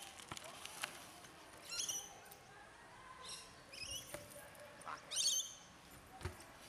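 Birds giving short, squeaky high chirps several times, the loudest burst about five seconds in, with a few faint knocks in between.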